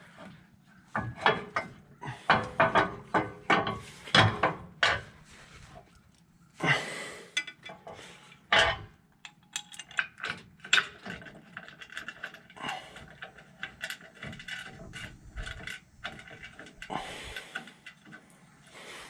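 Hand tools working on a truck's steering parts: runs of quick metallic clicks like a ratchet wrench, mixed with knocks and clanks of tools and metal parts being handled.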